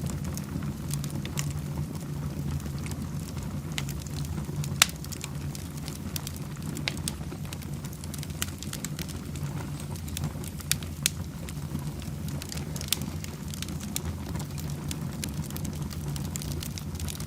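Fireplace fire crackling, with scattered sharp pops over a steady low rumble. The loudest pop comes about five seconds in.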